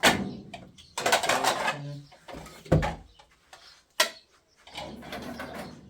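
Household clatter: a sharp knock at the start, a dull low thump near the middle and another sharp knock about four seconds in, with rustling and scraping between.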